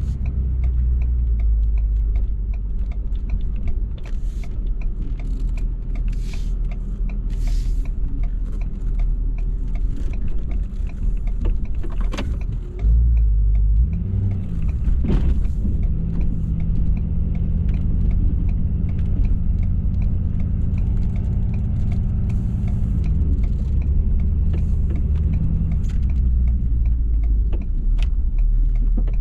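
Ford F-350's 6.7 L Power Stroke V8 turbo-diesel running under load while plowing snow, its revs dropping and climbing again several times, with scattered clicks and knocks over the steady low engine sound.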